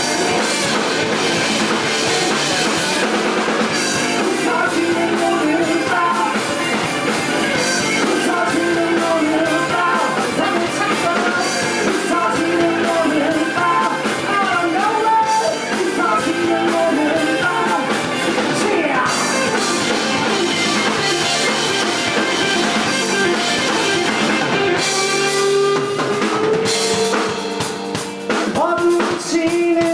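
Live rock band playing loudly: a drum kit, electric guitar and bass under a singer's voice.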